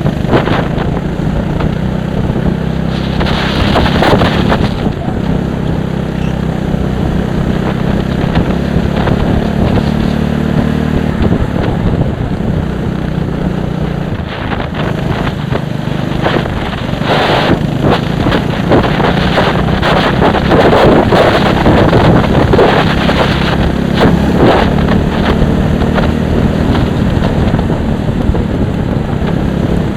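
A vehicle engine running at steady revs, buried under heavy wind buffeting on the microphone, with gusts swelling and fading.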